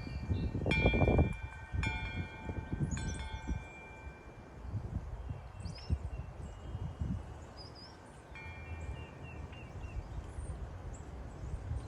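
Wind chime ringing: a few strikes about a second apart near the start, each a cluster of steady metallic tones that fade slowly, then another strike past the middle. A low uneven rumble runs underneath, with faint short high chirps.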